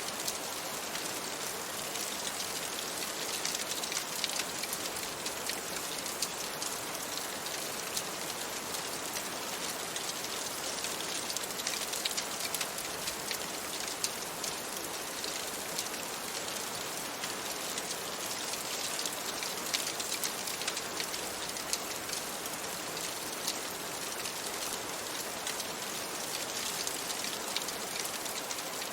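Steady rain falling against a window: a dense, even hiss dotted with many small, sharp ticks of drops.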